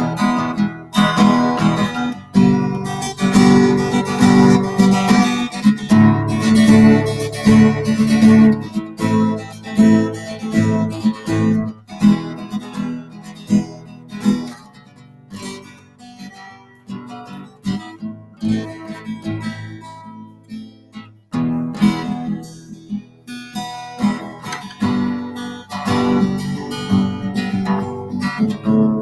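Acoustic guitar strummed through chords, with no singing. The playing drops to a softer, sparser passage about twelve seconds in, and fuller strumming comes back near two-thirds of the way through.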